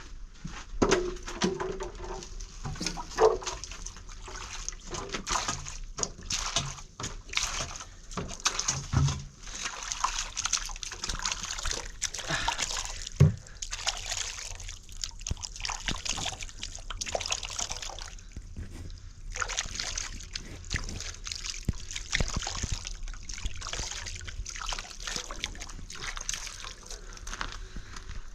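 Water sloshing and splashing in irregular bursts, with a few sharper knocks.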